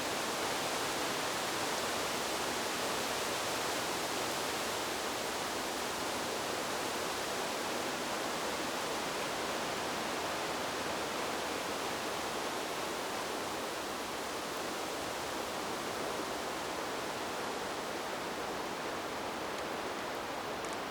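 Wind blowing through trees: a steady, even rushing hiss with no distinct gusts.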